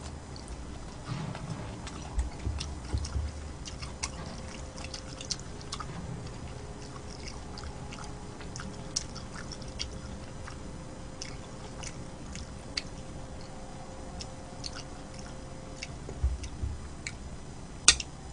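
A person chewing and eating close to the microphone, with soft low mouth thumps and many small wet mouth clicks. There is one sharp, loud click just before the end.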